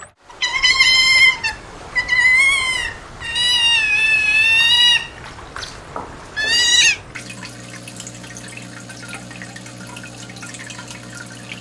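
A cat, high-pitched like a kitten, meowing four times, the third call long and wavering. About seven seconds in the meowing stops and a steady low hum with a light hiss takes over.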